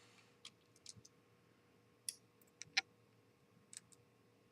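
Small metal screws clicking and tapping faintly as they are handled and sorted by hand: a scattered run of light, separate clicks.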